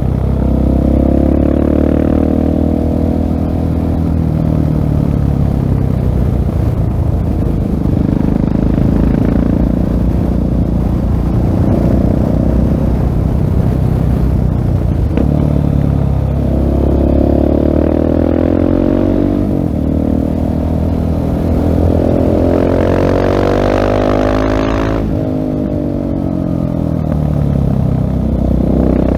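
2016 Husqvarna 701 Supermoto's single-cylinder engine through a LeoVince full-system exhaust, accelerating and easing off again and again, its pitch rising and falling several times. A brief rush of hiss comes in near the end.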